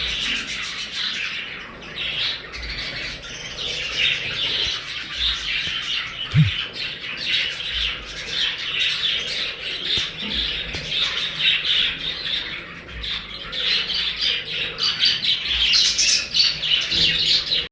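A large flock of budgerigars chattering without pause, a dense mix of overlapping chirps and squawks. A single short low thud about six seconds in.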